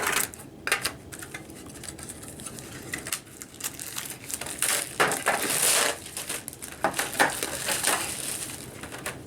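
Packaging of a new furnace humidifier vapor pad being opened: crinkling and rustling with scattered sharp clicks and knocks, and two longer rustling stretches in the middle and later part.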